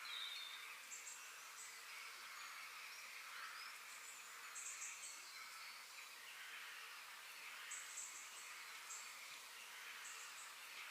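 Faint park ambience: birds and insects chirping, with short high chirps recurring every few seconds over a soft, steady hiss.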